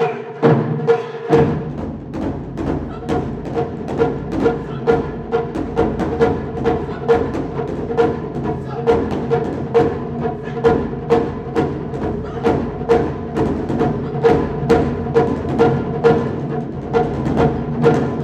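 Japanese taiko drums played in a steady, driving rhythm of about three strikes a second; a deeper drum joins about a second in.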